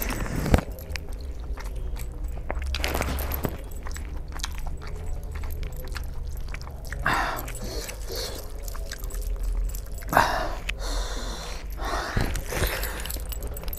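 Close-up wet chewing and lip-smacking of a person eating saucy chicken curry and rice by hand, with many small mouth clicks and several louder bursts. A steady low hum runs underneath.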